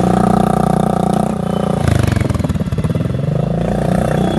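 Scooter engine running loud through an aftermarket exhaust with its dB killer fitted, being revved: the pitch drops about two seconds in, then climbs again.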